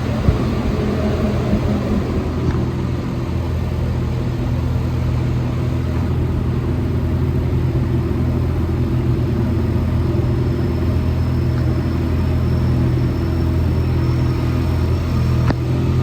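Inside a rubber-tyred Alstom NS-74 metro car running between stations: a steady low rumble and drone from the tyres and traction equipment, with a faint high whine in the second half and a single sharp click near the end.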